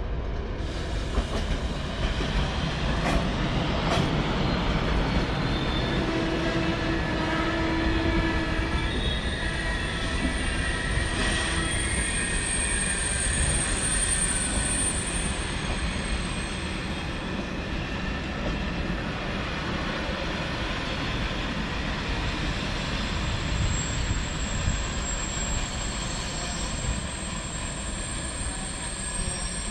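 A train rolling along station track with a steady rumble. Two sharp knocks come about three and four seconds in, and its wheels squeal on the rails in a thin high tone about a third of the way in and again near the end.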